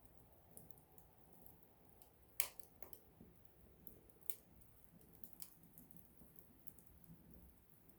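Small wood fire crackling quietly, with scattered sharp pops: a loud one about two and a half seconds in and another a couple of seconds later.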